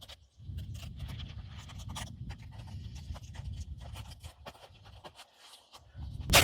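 Wind buffeting the microphone as a fluctuating low rumble, with scratching and rustling handling sounds over it. Music comes in near the end.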